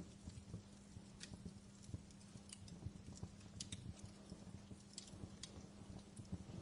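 Wood fire in a fireplace crackling, with irregular sharp pops and snaps over a low rumble and a faint steady hum.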